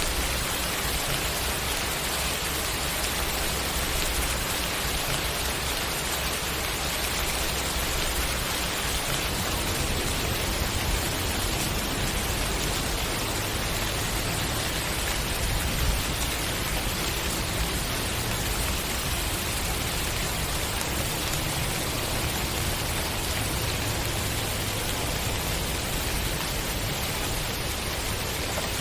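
Steady rain falling, an even hiss of raindrops with no breaks, with a low rumble that grows a little heavier about a third of the way in.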